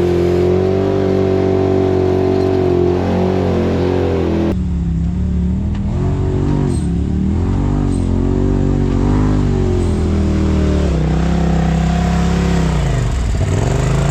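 Side-by-side UTV engine running and revving on a steep hill climb, its pitch rising and falling as the throttle works. The sound changes abruptly about four and a half seconds in.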